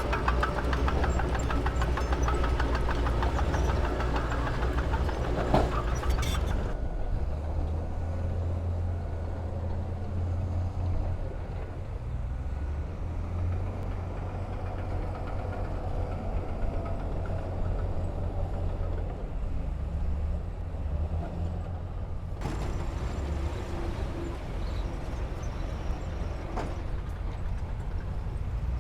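Heavy diesel earthmoving machinery running: a deep, steady engine rumble throughout. A busier mechanical clatter rides over it for the first six or so seconds, drops away abruptly, and returns abruptly about two-thirds of the way in.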